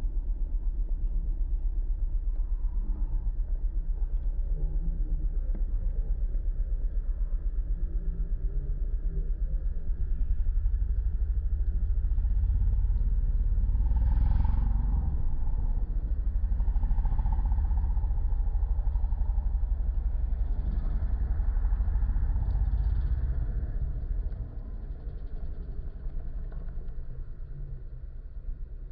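Car engines running with a low, steady rumble that gets louder about ten seconds in and drops off sharply after about twenty-four seconds.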